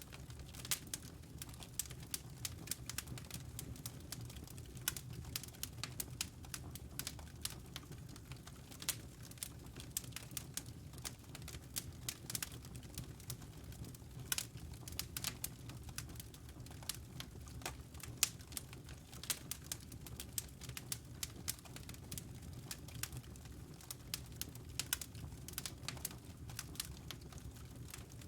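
Wood fire crackling: dense, irregular sharp pops and snaps over a low, steady rush of the flames.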